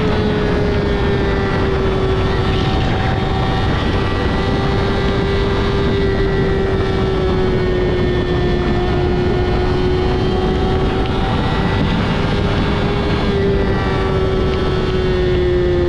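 Yamaha R6's inline-four engine, breathing through a Two Brothers full-system exhaust, running at a nearly steady note under way, with wind rushing past the rider's microphone.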